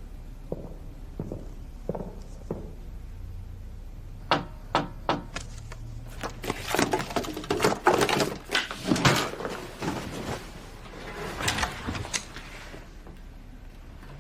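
A run of sharp knocks and clicks, then dense clattering and thunks, like a door and household objects being handled.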